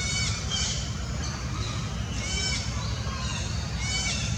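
Three short, high-pitched harsh animal calls, roughly two seconds apart, over a steady low rumble.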